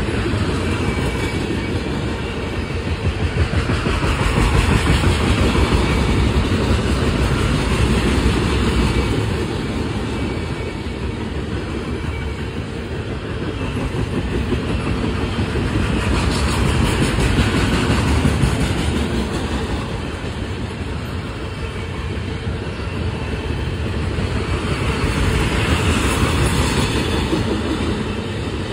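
CSX mixed freight train cars rolling past, a steady rumble of steel wheels on rail with clickety-clack, swelling and easing in waves about every ten seconds.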